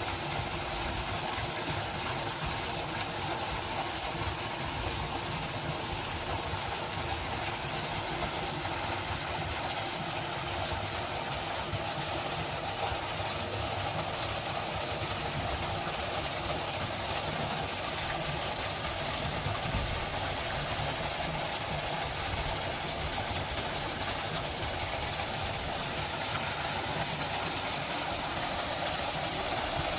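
Steady, unbroken nature ambience: a continuous wash of noise with no distinct calls, clicks or events standing out.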